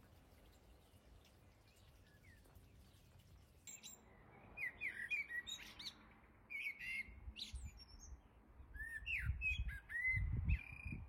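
Small birds chirping in short, quick clusters of high notes, starting about four seconds in. A low rumble rises under them near the end.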